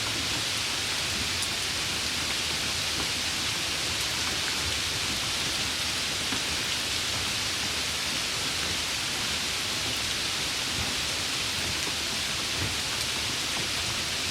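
Steady rain falling, a continuous even hiss of drops with no change in strength.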